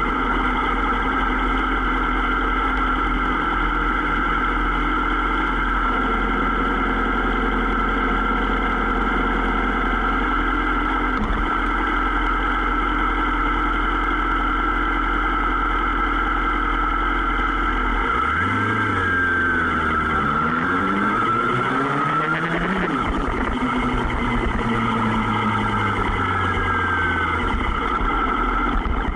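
Sport motorcycle engine running at a steady cruise; about two-thirds of the way through its pitch drops and then climbs again as the bike slows and accelerates.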